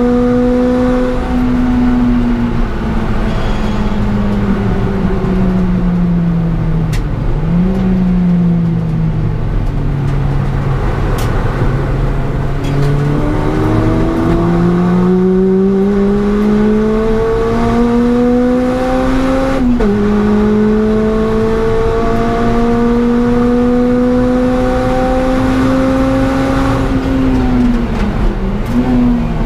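Honda Civic EP3's four-cylinder engine, heard from inside the cabin, lapping a circuit. The revs fall away with a quick blip about seven seconds in. Then the engine pulls up through the revs, with a gearchange drop about twenty seconds in, and falls again with another blip near the end. Tyre and road noise run underneath.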